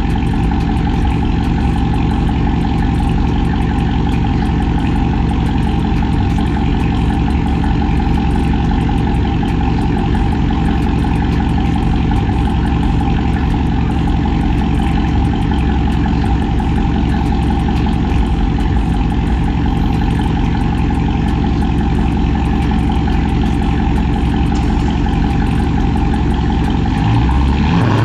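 Chrysler 300C's Hemi V8 with an aggressive cam and catless straight-pipe exhaust, running steadily at low revs.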